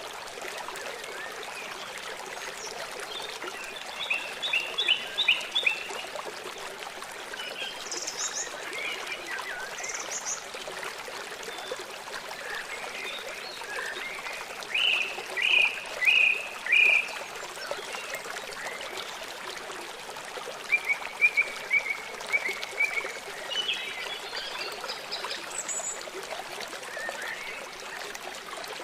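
Songbirds calling in short runs of quick repeated notes over the steady rush of a stream, the loudest a run of four notes about halfway through.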